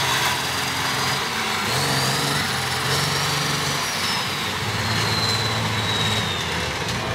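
Monster truck engine running steadily, its pitch shifting a couple of times, with a thin high whine that rises and falls.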